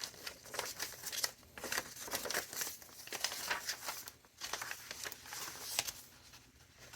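Paper pages of a chunky handmade junk journal being handled and turned, rustling and crinkling in short irregular bursts.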